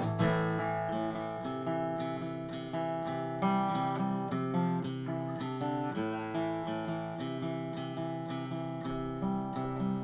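Acoustic guitar playing an instrumental break: a quick run of picked notes over ringing chords.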